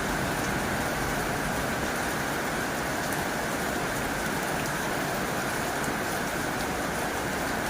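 Heavy rain falling on a tin roof: a steady, dense patter with a few single drop ticks standing out.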